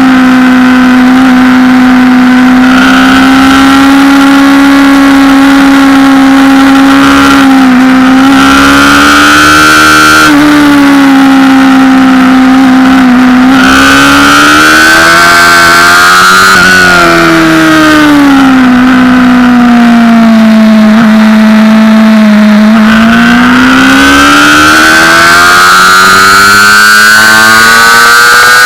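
Honda CBR600RR's inline-four engine running hard at high revs, its pitch dipping briefly a few times, sagging for several seconds in the middle, then climbing steadily under acceleration near the end.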